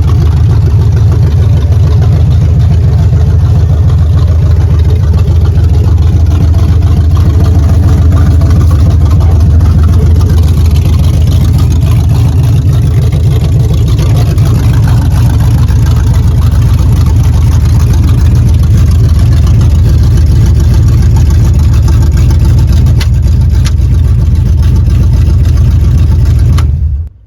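1978 Chevrolet Camaro's carbureted V8 running steadily at idle on a warmer day after failing to start in the cold, loud and deep. The sound cuts off abruptly near the end.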